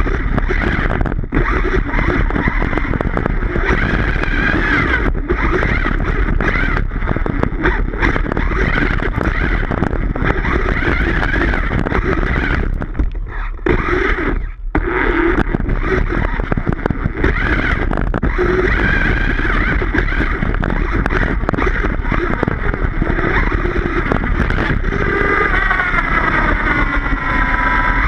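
Redcat Rampage XBE 1/5-scale electric RC car driving on grass: its electric motor and drivetrain whine, rising and falling with the throttle. The whine drops away briefly twice, about 13 and 14 seconds in, and climbs in rising sweeps near the end.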